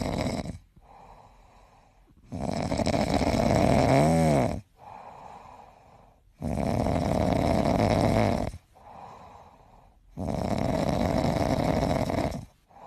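A sleeping cat snoring: a loud snore on each breath, about every four seconds and some two seconds long, with softer breathing in between.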